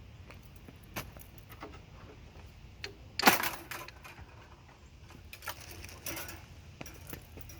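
Light metallic clicks and clinks of parts or tools being handled, with one sharp metal clank about three seconds in and a few more clicks later.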